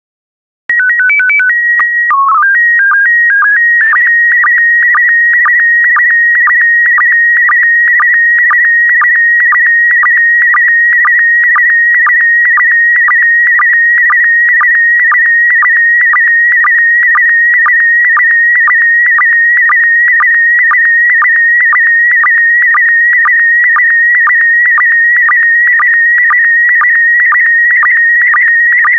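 PD120 slow-scan TV (SSTV) audio signal starting up. About a second in comes a short run of stepped beeps, the VOX tones and calibration header with its mode code. Then the image data plays as a steady, warbling tone near 2 kHz, ticking with a line-sync pulse about twice a second.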